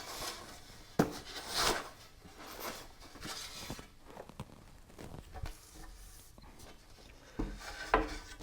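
Faint handling noises: rustling, with a sharp knock about a second in and a couple more near the end.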